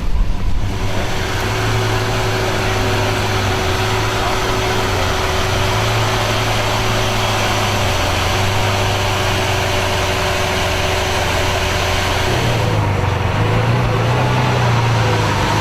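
A car engine idling steadily, its low note shifting about twelve seconds in.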